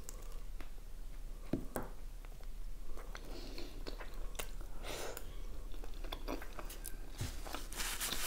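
A person biting into and chewing a soft chicken shawarma wrapped in lavash, close to the microphone, with scattered small wet clicks of the mouth.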